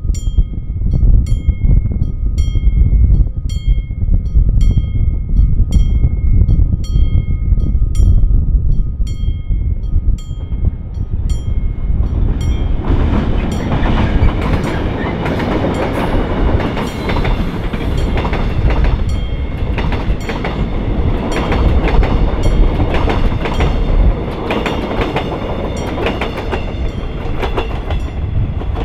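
A warning bell dings about twice a second over a low rumble. About twelve seconds in, the six-car Mugunghwa passenger train passes close by, and its wheels clatter loudly over the rail joints, drowning out the bell.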